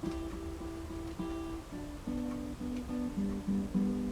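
Acoustic guitar playing a song intro from a karaoke backing track: a few quick repeated notes at one pitch, then a line of notes stepping lower.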